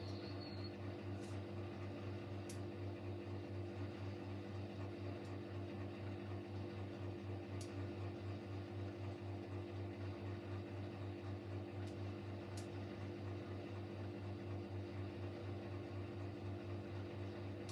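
Siemens Siwamat Plus 574 washing machine running a steady intermediate spin between rinses: a continuous motor-and-drum hum with a slight regular pulsing in loudness.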